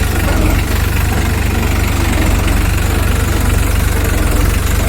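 Diesel engine running at a steady idle, with a fast, even chugging.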